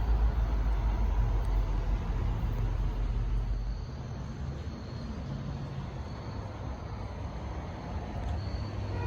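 Low rumble of a train at the crossing, which drops off about four seconds in to a quieter, steady noise.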